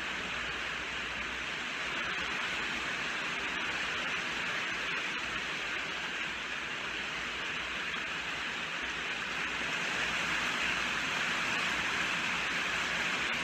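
Steady heavy rainfall, an even hiss with no single drops standing out.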